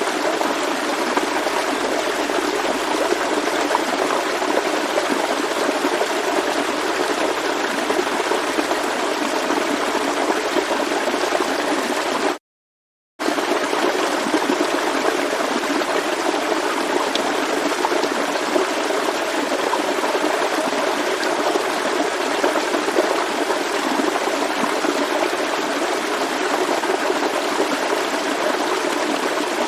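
A forest stream flowing steadily over rocks, an even rushing and gurgling of water. It is broken once, about twelve seconds in, by a sudden silence of under a second before the flow resumes.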